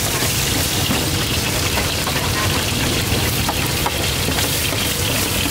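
Short stir-fried noodles (lort chha) sizzling in a large flat steel pan as a metal spatula scrapes and turns them, with a steady frying hiss and scattered clicks of the spatula against the pan.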